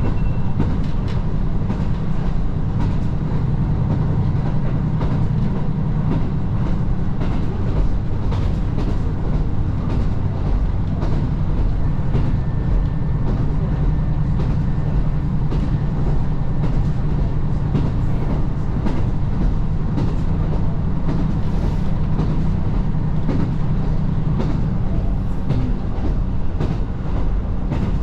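Diesel railcar running along the track: a steady low engine and running rumble with a rapid scatter of rail clicks over it.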